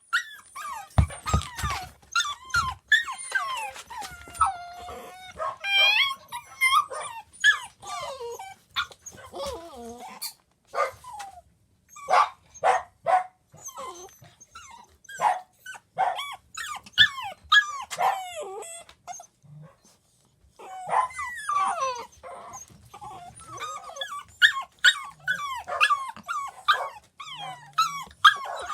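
Pembroke Welsh corgi puppies crying while shut in their crate: high-pitched whines and whimpers that glide up and down, broken by short sharp yips and barks, with a brief lull about two-thirds of the way through.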